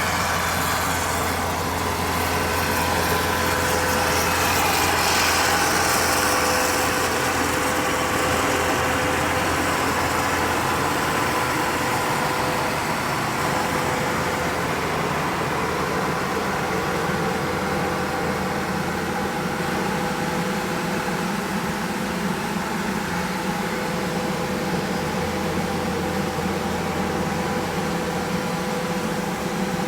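An engine running steadily, a little louder about five seconds in.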